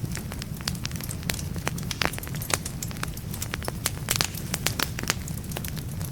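Wood fire burning in a fireplace, logs crackling and popping in quick irregular snaps over a steady low rumble of the flames.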